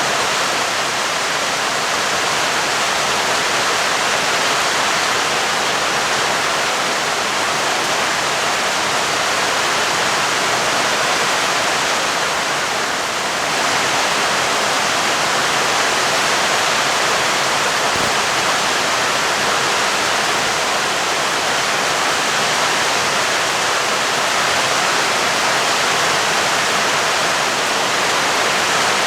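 Steady, heavy rain: a dense, even hiss with no thunder heard.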